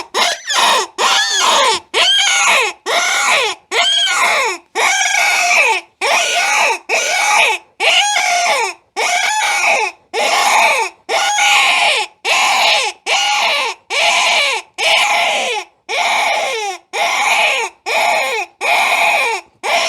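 Hand-blown rabbit-in-distress predator call, blown as a steady series of short, loud, harsh squalls, about one and a half a second, each rising then falling in pitch. It imitates a rabbit in distress to lure coyotes in as easy prey.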